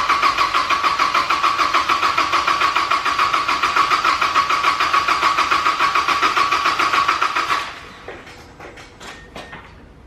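Mazda MX-5 four-cylinder engine turning over on the starter motor with a steady rhythmic chug, cranked for oil pressure after a rebuild. It turns freely, a sign the engine is not seized. The cranking stops about three-quarters of the way through, leaving a few faint clicks.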